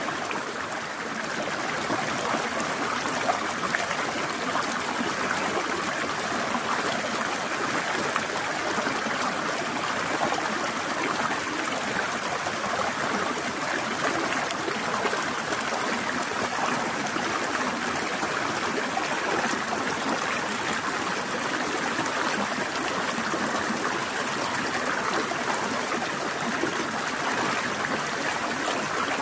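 A stream flowing and trickling over rocks, a steady, even rushing of water with no breaks.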